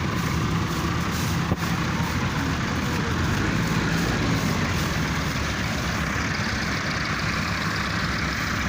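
Tractor diesel engines running steadily under load.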